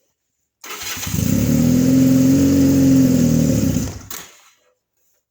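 A 1986 Honda's engine being cold-started: it turns over with a steady mechanical whine that rises slightly and sags for about three and a half seconds, then stops abruptly.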